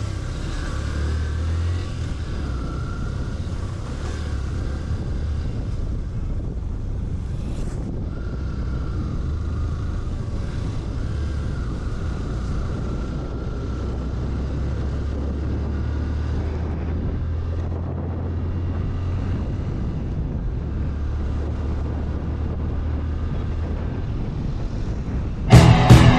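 Motorcycle engine running steadily with wind noise on the microphone, a constant low rumble under a hiss. A sudden loud burst comes near the end.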